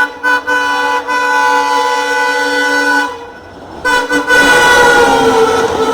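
Air horn of a WDM-3A diesel locomotive sounding long blasts with short breaks as the train runs through a station without stopping. After a pause of under a second it sounds again, and its pitch drops as the locomotive passes, over the rising rumble of the train.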